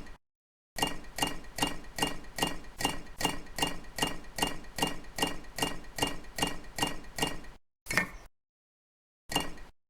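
Rapid, even tapping, about four light strikes a second, each with a short ringing tone; it cuts in abruptly under a second in and stops suddenly, followed by two single taps.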